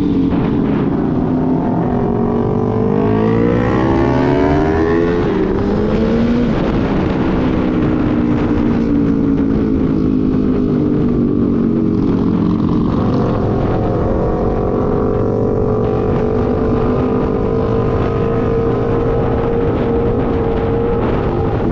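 Motorcycle engine under way. Its revs climb for a few seconds, fall back about five to six seconds in, then hold nearly steady, creeping up a little near the end.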